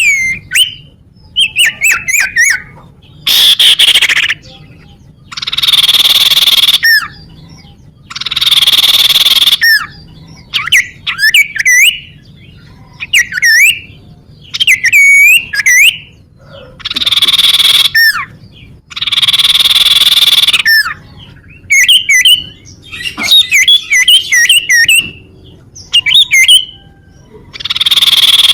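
Common iora (cipoh) calling: quick whistled chirps and sweeping notes alternating with repeated harsh, rasping buzz notes about a second long.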